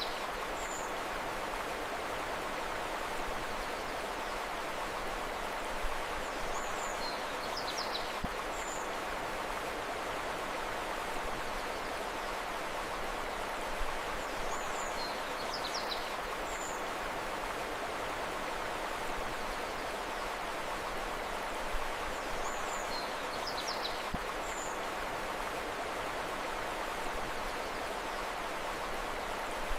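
River water flowing steadily, with small groups of high bird chirps and a light click coming back about every eight seconds, as a repeating loop.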